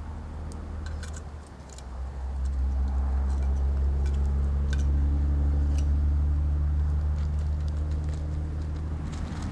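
A steady engine hum that grows louder about two seconds in, with scattered light clicks over it.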